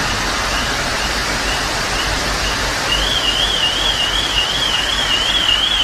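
Steady loud rush of floodwater and rain. About halfway through, an electronic alarm starts up with a high, fast-wavering tone.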